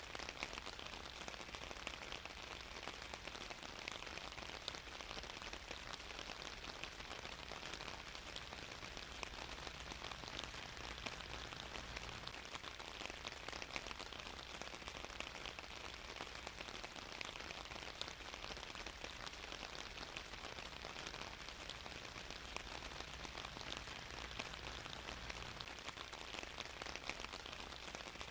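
Steady rain falling on a surface, a constant even patter of many drops.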